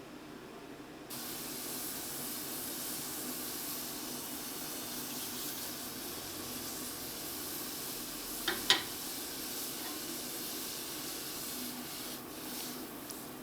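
A steady hiss that starts suddenly about a second in and stops near the end, with one sharp click about two-thirds of the way through.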